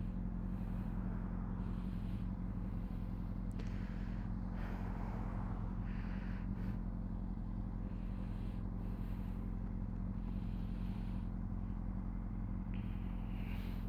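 Honda CBR600RR's inline-four engine running steadily at a constant cruising speed, with no revving, under wind and road noise.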